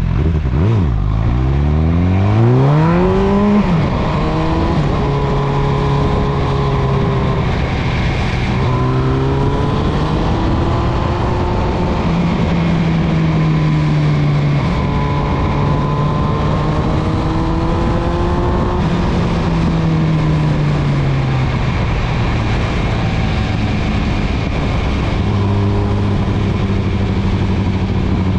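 MV Agusta Brutale 910's inline-four engine under way. It climbs steeply in revs over the first few seconds, then holds steady with gentle rises and falls, eases off about twenty seconds in and settles at a lower, steady note near the end.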